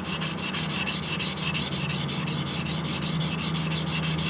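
Yanagiba blade rubbed rapidly back and forth on a wet whetstone, an even run of scraping strokes about seven a second. The kiriha bevel is being ground down to shape, far enough that a burr is forming.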